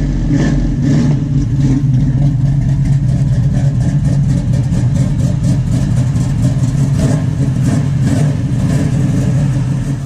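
First-generation Chevrolet Camaro SS V8 engine running at a steady idle, a loud, deep exhaust rumble.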